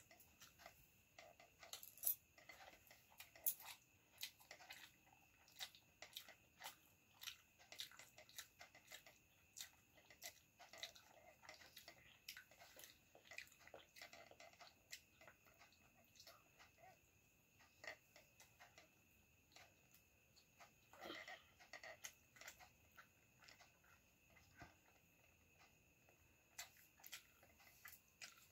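Faint chewing and mouth clicks of a child eating pasta and fried egg, a steady run of small sharp clicks with two louder ones about two and three and a half seconds in.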